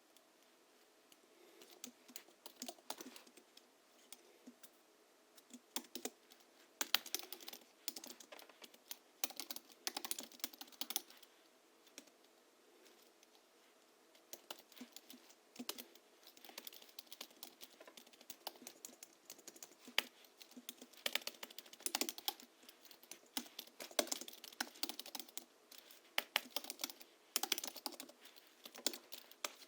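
Typing on a Hansung GHL-5X keyboard modded with lubricated springs and 50 g rubber domes: runs of quick keystrokes broken by short pauses, with a longer lull about twelve seconds in.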